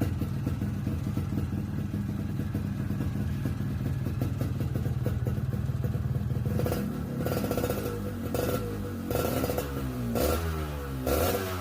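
Yamaha RX-King two-stroke single-cylinder motorcycle engine idling through a stock-style muffled exhaust, with a crisp note. From about seven seconds in it is blipped several times, each rev rising and falling quickly in pitch.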